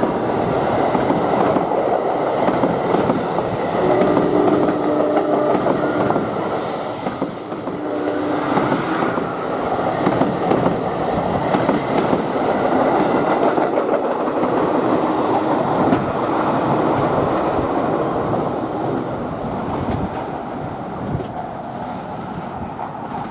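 A train rolling past at close range: steady wheel-on-rail noise with clickety-clack and short squeals of the wheels, fading over the last few seconds as it moves away.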